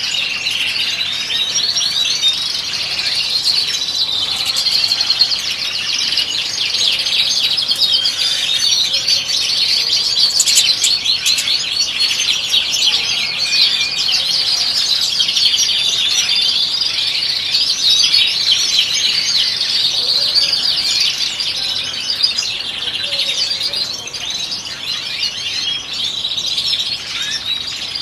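Several European goldfinches singing at once: a dense, continuous twittering with many overlapping notes.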